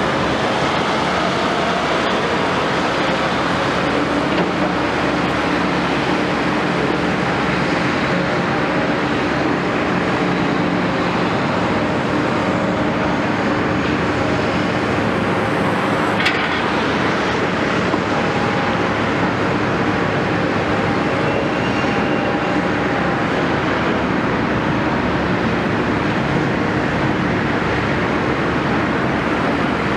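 Caterpillar 329E excavator's diesel engine running steadily under working load, with one sharp metallic click about halfway through.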